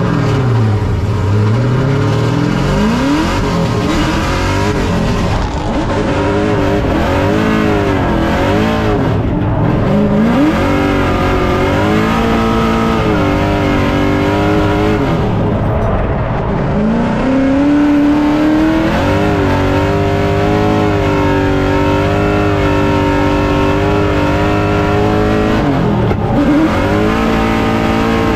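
LS3 V8 of a Nissan S14 drift car heard from inside the cabin. The revs swing down and climb again several times, then hold high and steady for several seconds at a time through the drift.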